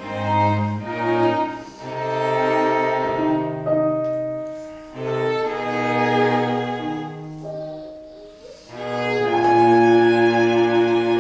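Piano quartet playing slow classical chamber music, with violin and cello holding long bowed notes in phrases that swell and fade, easing off twice before rising again near the end.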